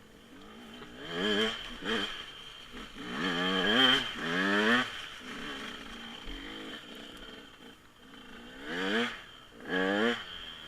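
Dirt bike engine revved in short rising blips: two quick revs, a longer wavering rev about three to five seconds in, then two more quick revs near the end.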